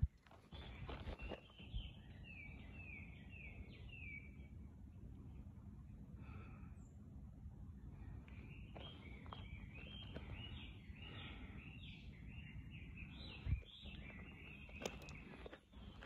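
A bird singing in runs of quick, short descending notes: one run about two seconds in and a longer, busier run through the second half. Under it a steady low rumble, and a single thump near the end.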